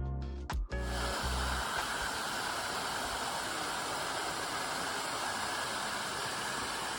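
Waterfall water rushing in a steady, even hiss. Guitar music fades out about a second in.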